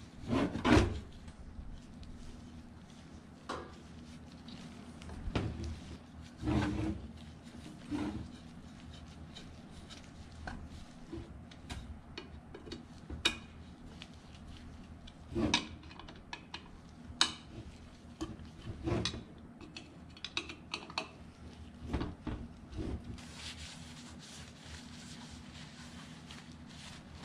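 Ceiling fan parts being handled and fitted together during reassembly: scattered knocks, clicks and rubbing, with a sharp clatter about a second in.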